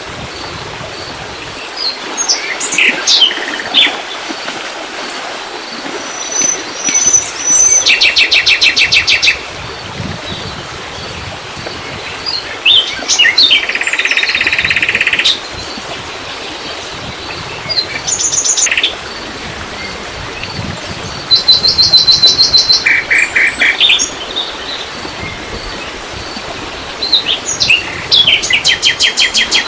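Songbirds singing close by: sharp high chirps and trills, with several runs of rapid repeated notes lasting a second or two each.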